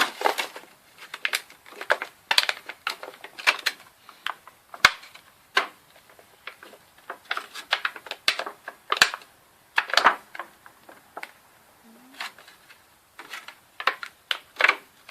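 Packaging and parts of a mini vibration speaker being handled: irregular clicks, taps and rustles, a few each second.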